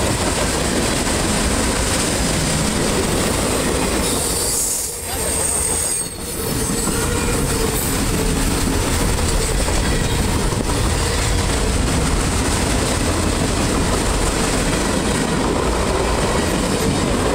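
Loaded freight flatcars rolling past close by, steel wheels clattering and rumbling on the rails. A brief high-pitched tone sounds about five seconds in, and the noise dips briefly twice around then.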